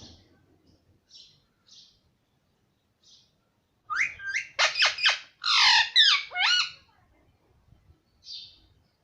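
Pet parrot calling: a few faint short chirps, then about four seconds in a loud, rapid run of calls sliding up and down in pitch for nearly three seconds, and one more short chirp near the end.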